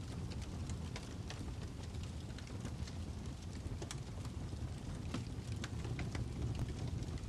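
Fire crackling: irregular pops and snaps over a steady low rumble.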